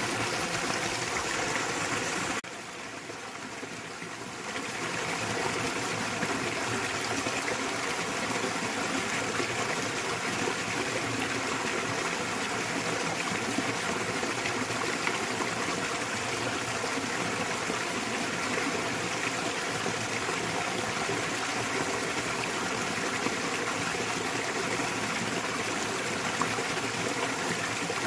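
Small waterfall in a mountain stream: water splashing and rushing steadily. About two seconds in it turns quieter for about two seconds, then comes back to full level.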